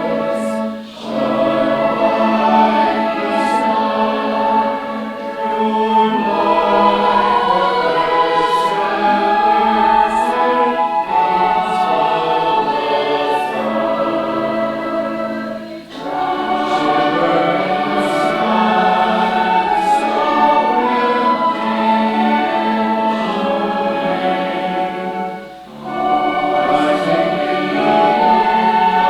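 Choir singing a slow piece in sustained, held phrases, with short breaks between phrases about a second in, around sixteen seconds and near twenty-five seconds.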